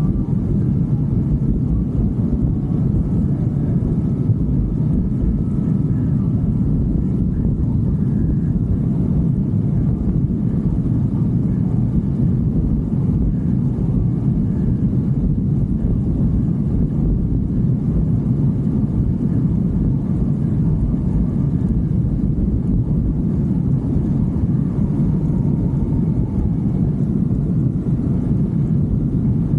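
A motorcycle riding along at a steady pace: a continuous low rumble of engine, road and wind noise that holds level throughout.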